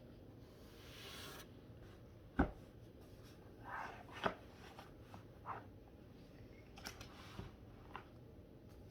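Handling sounds: a couple of soft rustles and a scatter of light knocks and taps, the sharpest about two and a half seconds in and another a couple of seconds later.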